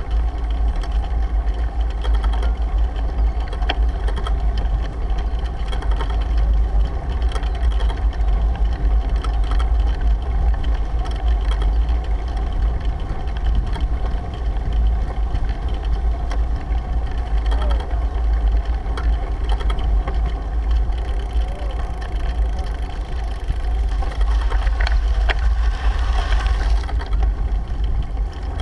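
Steady wind rumble on a bicycle-mounted action camera's microphone while riding, with tyre and road noise underneath; a brighter rush of noise rises and fades about 24 seconds in.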